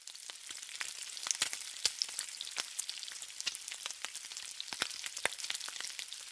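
Meat frying on a hot flat-top griddle: a steady sizzle full of sharp crackles and pops.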